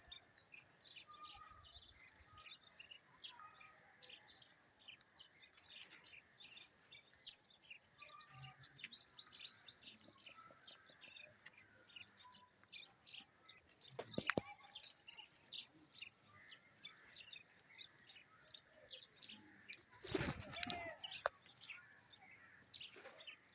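Birds chirping with many short, high calls. A fast run of chirps about seven to nine seconds in is the loudest part, and a brief, louder, harsher burst comes near the end.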